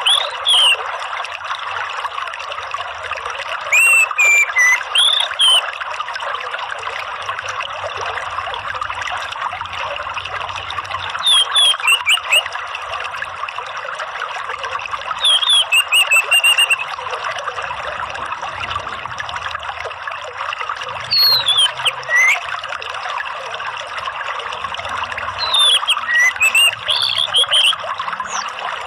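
Orange-headed thrush (anis merah) singing short whistled phrases, with sliding notes and very high squeaky notes, about every four to five seconds, over a steady sound of trickling running water.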